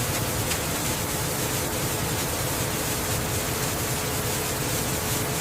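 Steady flour-mill machinery noise: an even, loud hiss with a constant mid-pitched hum running under it, unchanging throughout.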